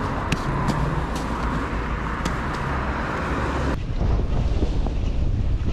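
Wind rumbling on the microphone together with road and traffic noise while riding a bicycle. The sound changes abruptly about two-thirds of the way in, the steady hiss dropping away and leaving mostly low wind rumble.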